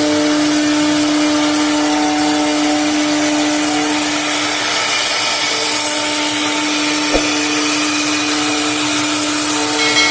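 CNC wood router's spindle running and cutting wood: a steady whine over a hiss, with a single click about seven seconds in.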